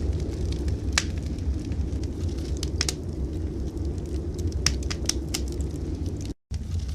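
Wood fire in a fireplace crackling, with scattered sharp pops over a steady low rumble. The sound cuts out for a moment near the end.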